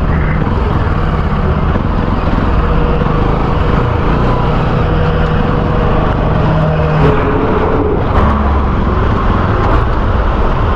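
Bajaj Pulsar NS200 single-cylinder motorcycle engine running at low speed in traffic, a steady loud rumble whose pitch shifts up and down a few times as the throttle changes, with road and traffic noise around it.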